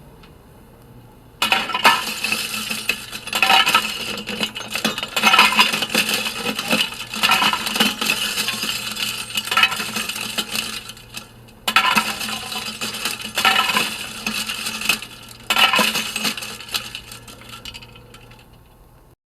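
Small hard objects clinking and rattling in dense bursts, in two long runs with a brief break about halfway through. The record's recorded sound effect has a faint steady hum under it.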